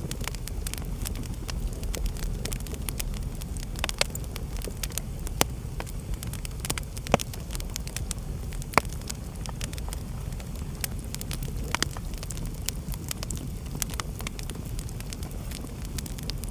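Fireplace fire crackling: a steady low rumble of burning with irregular sharp pops and snaps throughout, two of them louder a little past the middle.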